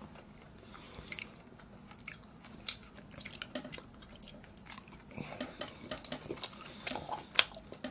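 A person chewing a mouthful of spicy stir-fried pork close to the microphone: soft, scattered mouth clicks that come thicker in the last few seconds.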